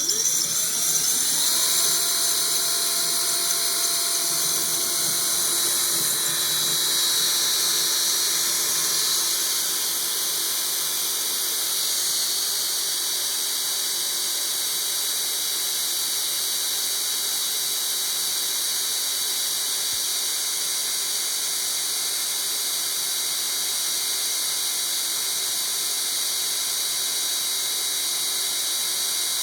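Electric drill with a diamond-tipped bit grinding a hole through a china plate, a steady high-pitched whine under steady pressure. The motor spins up in the first second.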